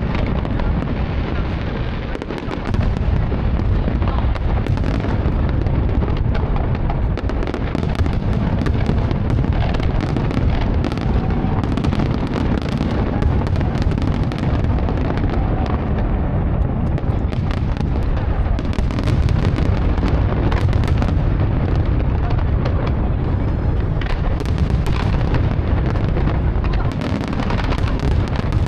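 Fireworks going off in a dense, continuous barrage: deep booms overlapping, with many sharp bangs and crackles throughout.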